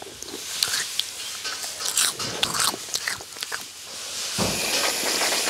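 Crisp crunching of fried prawn crackers being bitten and chewed, a quick irregular run of sharp crackles. About four seconds in, a steady hiss takes over.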